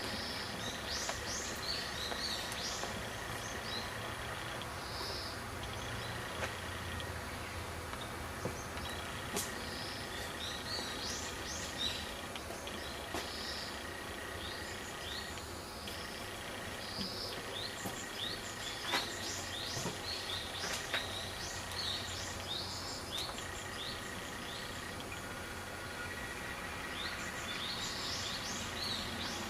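Birds chirping in many short, high calls all through, over a steady low background hum.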